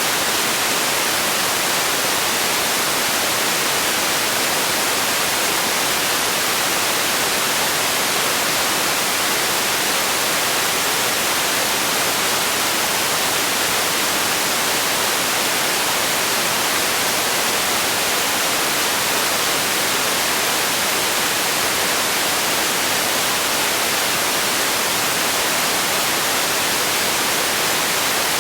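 Steady white noise: an even, unchanging hiss, brightest in the treble, with no breaks or events.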